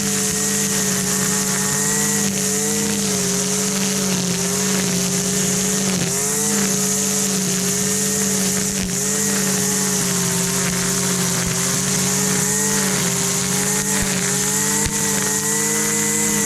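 Husqvarna 326 LD string trimmer's small two-stroke engine running at high revs, a steady high buzz that sags briefly a couple of times.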